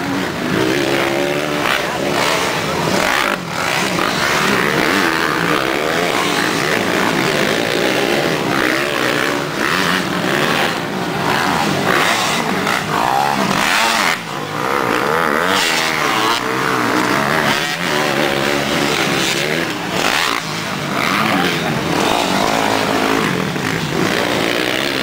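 Several motocross bike engines racing, their pitch rising and falling as the riders rev, shift and back off.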